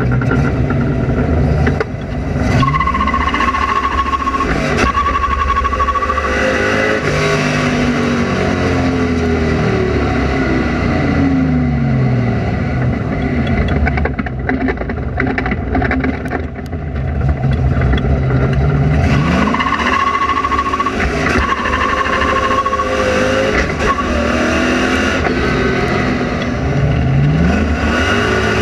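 Ford Focus engine revving hard on launch, once about two seconds in and again around the two-thirds mark. Each launch brings a steady high tyre squeal lasting a few seconds as the car suffers wheel hop. The revs then fall away in sweeping drops, and the engine starts to rise a third time near the end.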